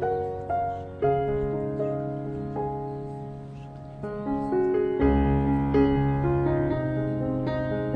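Slow, gentle piano music: single notes and chords struck and left to ring, with a deeper, fuller bass layer coming in about five seconds in.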